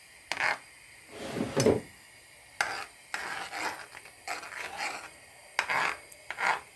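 A kitchen utensil scraping and knocking against cookware in a string of short, irregular strokes, the loudest about a second and a half in.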